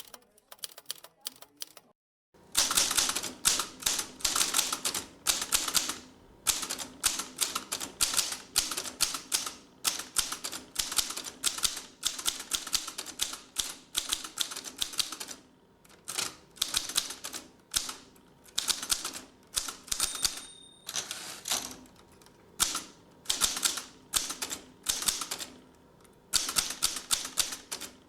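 Old mechanical typewriter being typed on: fast runs of sharp key strikes in bursts of a few seconds, with short pauses between them. The typing starts about two seconds in, after a moment of silence.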